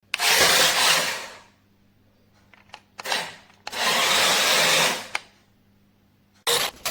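Small electric motor and drivetrain of a 1:18 RC monster truck whirring in four throttle bursts: two longer runs of about a second each and two short blips, with quiet pauses between.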